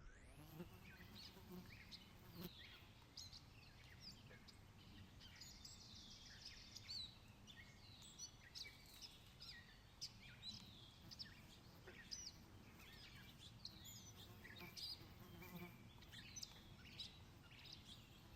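Faint chorus of small songbirds: many short chirps and trills overlapping throughout, over a steady low background rumble.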